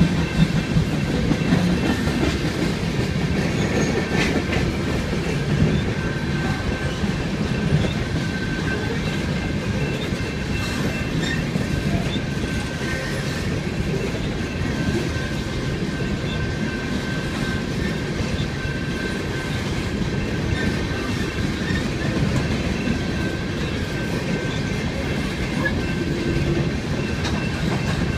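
BNSF freight train's coal cars rolling past: a steady rumble, with wheels clacking over rail joints and a thin steady high squeal from the wheels.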